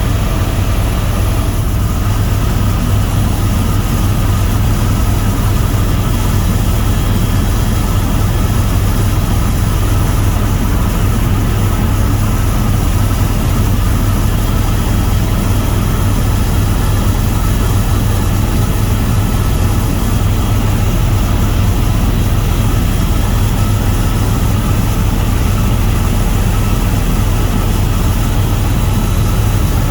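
Tour helicopter in steady flight: the engine and rotor run evenly, with a strong low drone and steady higher tones over it.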